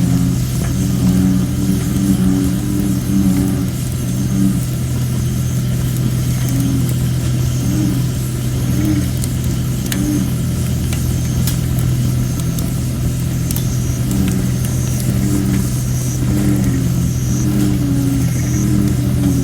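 Campfire of thin, under-dried red robin (Photinia) wood crackling with scattered small pops, under a continuous low chorus of American bullfrogs whose deep calls pulse in and out. The low bullfrog drone is the loudest sound.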